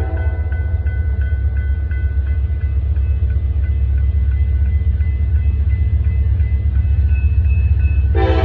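Norfolk Southern freight train's diesel locomotives approaching with a steady low rumble that grows slowly louder, under a faint ringing about twice a second that fits a grade-crossing warning bell. Near the end the lead locomotive's air horn blasts loudly.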